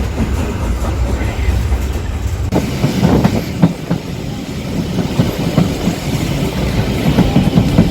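A steam-hauled passenger train running along the track, its wheels rumbling and clattering over the rail joints. About two and a half seconds in the sound changes abruptly to a louder, more uneven clatter of knocks.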